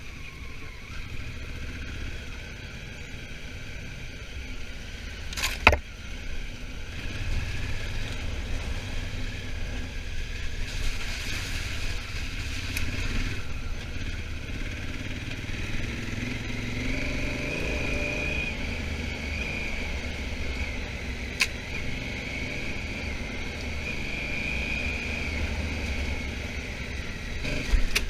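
Honda Africa Twin motorcycle being ridden, its engine running under a steady rumble of wind and road noise, with a wavering whine in the second half. Three sharp knocks stand out: about five seconds in, around two-thirds of the way through, and just before the end.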